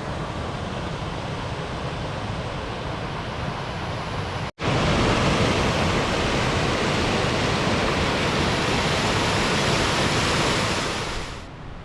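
Steady rushing of water in a partly frozen beck, an even hiss. About four and a half seconds in it cuts briefly to silence and comes back louder, easing off near the end.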